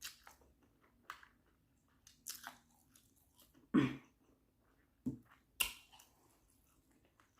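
Close-miked chewing of a mouthful of stir-fried instant noodles (Indomie mi goreng): scattered soft, wet mouth noises, with a louder one about four seconds in.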